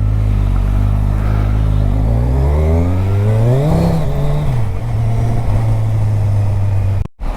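Kawasaki Ninja 1000's inline-four engine running steadily, then revving up for about two seconds and easing back down to a steady speed as the motorcycle rides off.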